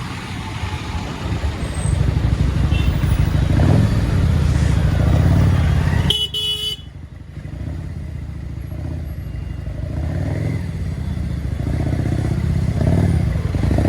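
Motorcycle engine running on the move through road traffic. About six seconds in a vehicle horn gives a short toot, and the engine drops quieter, then builds back up.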